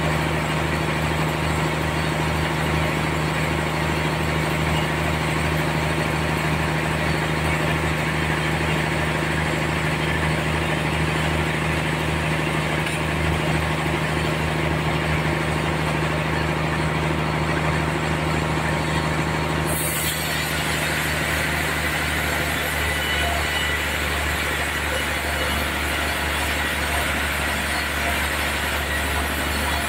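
Sawmill machinery running with a steady motor hum. About two-thirds of the way through the sound changes abruptly to a brighter, hissier tone as the low hum weakens.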